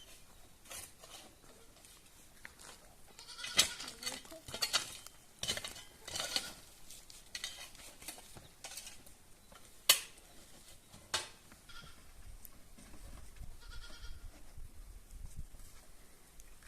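Goats bleating several times, with a few sharp knocks and clinks in between, the loudest about ten seconds in.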